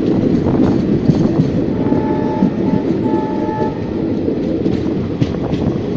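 Train running on the rails: a steady rumble with scattered clicks and clacks from the wheels. About two seconds in, a horn sounds faintly in three short pieces for under two seconds.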